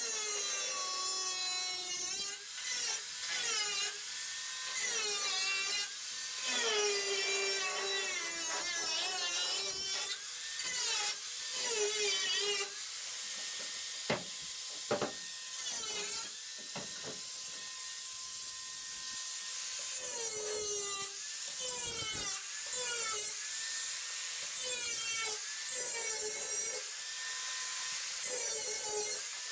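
Power tool cutting into the sheet-metal nose panel of a VW bay window bus, its whine rising and falling in pitch as it loads up and frees, with a few sharp clicks partway through.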